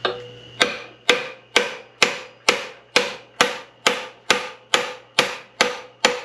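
Hammer tapping steadily on a bearing puller clamped to a stuck bearing in an SM465 transmission, about two blows a second, each with a short metallic ring, to drive the stubborn bearing out.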